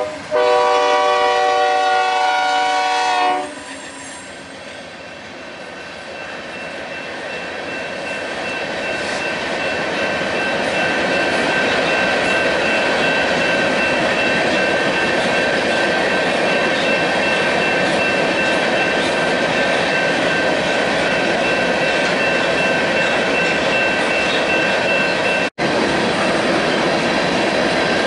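A BNSF freight locomotive's air horn sounds a loud multi-note chord that cuts off about three seconds in. Then the rumble of a freight train's covered hopper cars rolling past swells and holds steady, with a thin high steady whine over it and a split-second dropout near the end.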